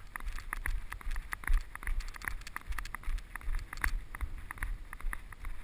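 Footsteps of a person jogging on a trail, a quick run of irregular steps, over a low rumble of wind and camera movement on the microphone.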